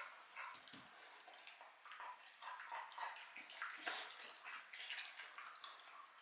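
A Shiba Inu eating a dog treat: irregular wet smacking, licking and chewing sounds from its mouth.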